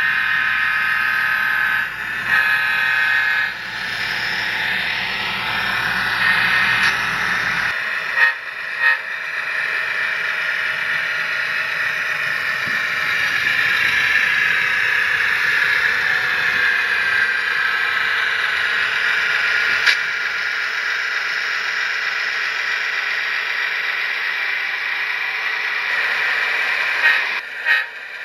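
Sound-decoder recording of a Fairbanks-Morse 38D opposed-piston diesel prime mover running, played through the small speaker of an HO scale model locomotive, thin and without bass. The engine note shifts in pitch and falls away for a while about halfway through.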